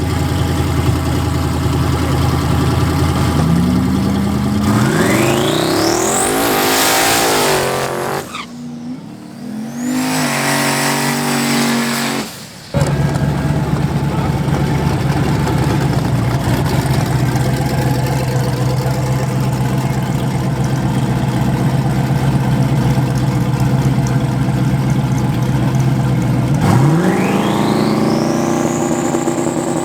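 Drag race car engines: a steady, loud run at held revs, then hard acceleration with the engine pitch climbing steeply, twice. About halfway through, the sound cuts off abruptly and comes back as a constant drone.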